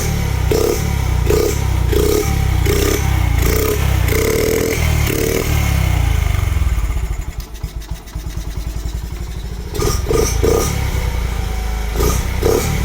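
Carbureted Honda Monkey AB27's 49cc single-cylinder four-stroke engine running with a pulsing beat. It settles to a lower, quieter idle for a few seconds past the middle, then picks up again, freshly restarted after sitting for half a year.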